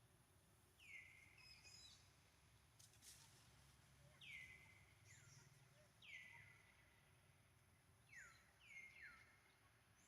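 Faint high animal calls, about seven in all, each sliding down in pitch and then held briefly, over a low background hum.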